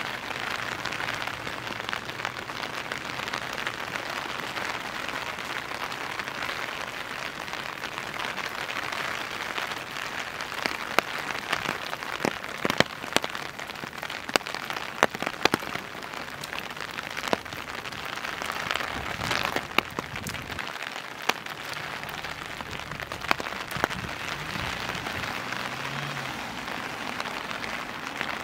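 Steady rain falling, with sharp single drops tapping louder now and then through the middle of the stretch.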